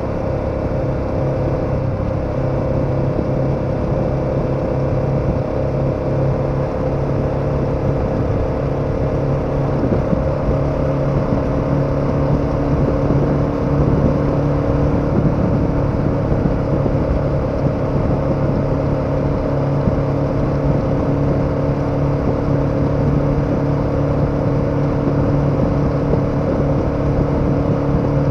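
KTM 1290 Super Adventure's V-twin engine running at a steady cruise, its pitch holding nearly level, over a haze of wind and road noise.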